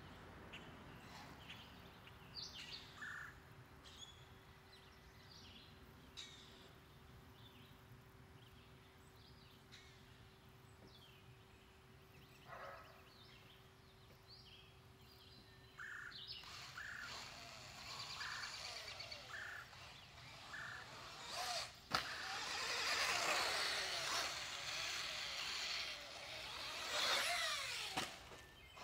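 Small birds chirping over a quiet outdoor background with a faint steady hum. About halfway through, a louder high-pitched whine that rises and falls in pitch takes over, with one sharp click partway through it.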